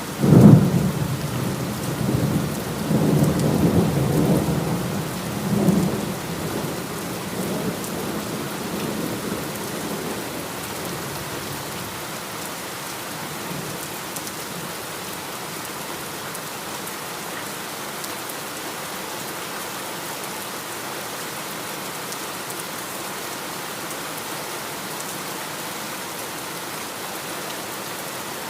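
Heavy rain with a sudden thunderclap just after the start, rolling on in low rumbles for several seconds before fading. After that, only the steady rainfall.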